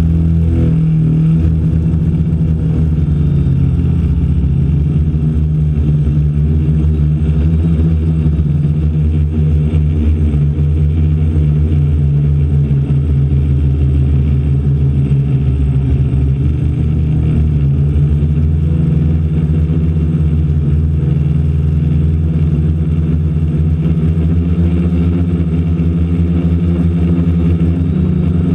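DJI Flamewheel F450 quadcopter's four electric motors and propellers droning steadily, heard from the camera on its frame, the pitch of the hum shifting slightly as the motors change speed.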